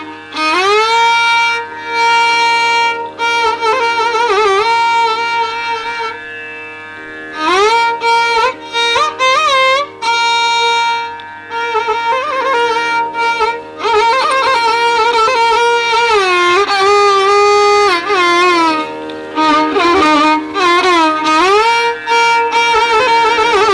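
Carnatic-style instrumental music: a bowed string melody, violin-like, gliding and bending between held notes over a steady drone.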